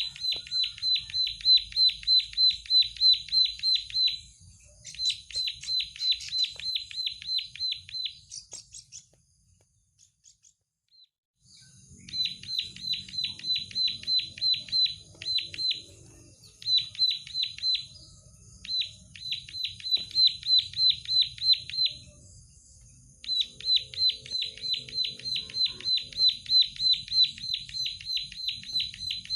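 Plain prinia (prenjak sawah) singing energetically: long runs of rapid, repeated high notes at about five a second, broken by short pauses, with a longer pause about ten seconds in.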